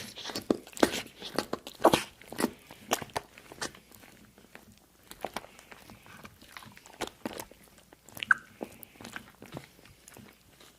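Crisp crunching, close to the microphone: a dense run of crunches for the first few seconds, then sparser crackles, with one sharper click a little past eight seconds.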